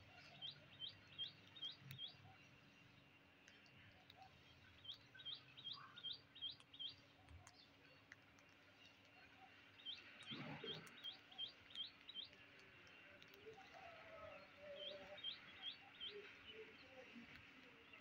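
A bird chirping: short high notes in quick runs of four to six, four runs in all, over a faint steady hum.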